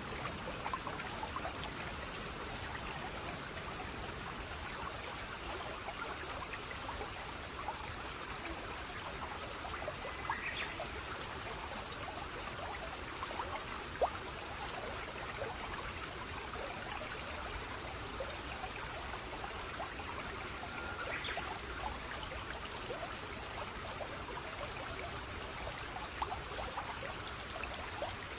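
Small stream of water trickling and splashing steadily, with many small droplet plinks through it. Two brief high sounds stand out, about ten seconds apart.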